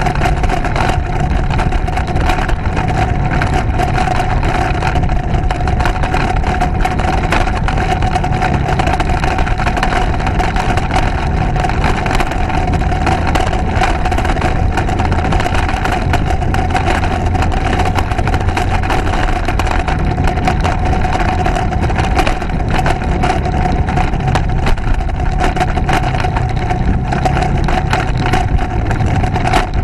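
Motorcycle running steadily while being ridden, a constant low rumble with a steady mid-pitched whine over it.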